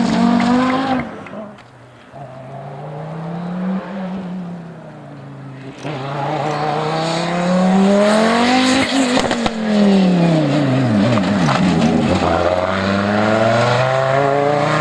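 Audi Sport Quattro S1 Pikes Peak race car's turbocharged five-cylinder engine at hard throttle. Its pitch drops and the sound quiets about a second in, then climbs steadily for several seconds, falls sharply around ten seconds in, and climbs again near the end.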